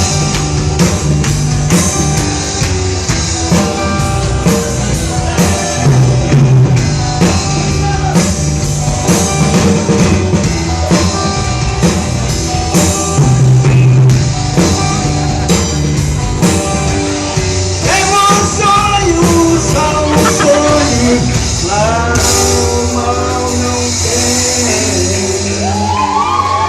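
Rock band playing live: drum kit, bass and guitars in a passage without lyrics, with a lead line bending in pitch over the last third.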